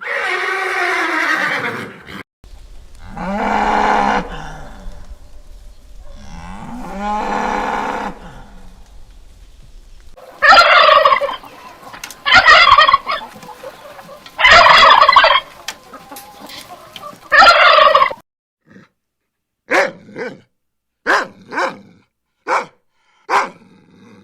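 Cattle mooing, three long calls, followed by a turkey gobbling in four loud bursts. Near the end comes a run of short, sharp animal calls.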